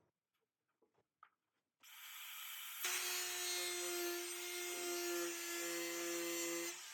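A handheld power tool running steadily for about four seconds at a constant pitch, starting about three seconds in after a second of hiss, then stopping just before the end.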